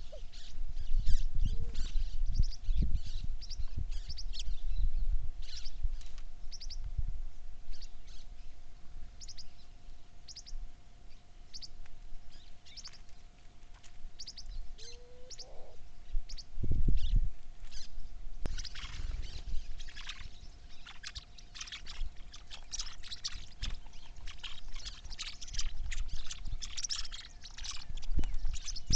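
Several small birds chirping: many short, high calls that come thicker in the second half, with a faint steady hum behind them. Low rumbles of wind or handling noise on the microphone come near the start and again about halfway through.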